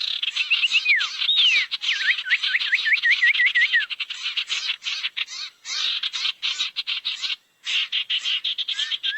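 Sirtu bird lure call: dense, rapid dry chattering throughout, with a run of quick downward-slurred whistles in the first few seconds and a brief break about seven and a half seconds in.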